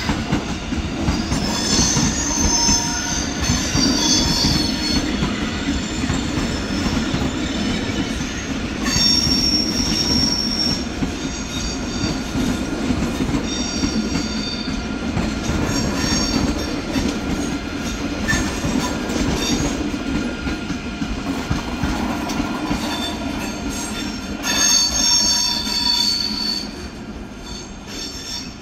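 An ICE high-speed train rolling slowly through the station tracks: a steady low rumble of wheels on rail, with high-pitched wheel squeal that comes and goes every few seconds.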